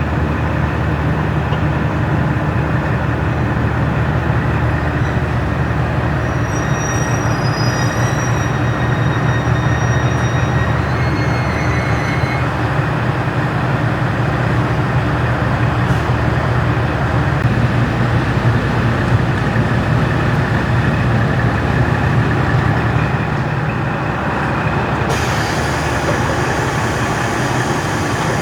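KiHa 40-series diesel railcar with its original-type engine under way, the engine drone steady over the running noise of the wheels on the rails. Faint high-pitched squeals come in for a few seconds early on, and a brighter hiss joins near the end.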